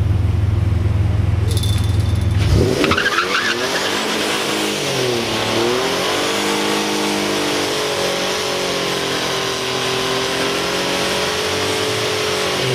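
Turbocharged 2007 Mustang's 4.0-litre V6 holds a steady low rumble, then launches hard about two and a half seconds in. The revs climb, dip and climb again once around a gear change, then hold high and steady under full throttle.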